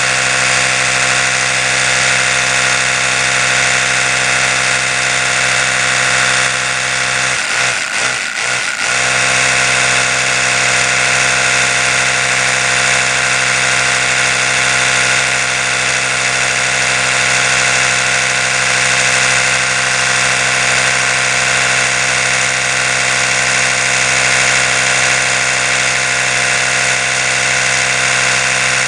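Oral-B electric toothbrush motor running continuously with a steady buzzing hum. About eight seconds in, the hum wavers and dips for roughly a second before settling back.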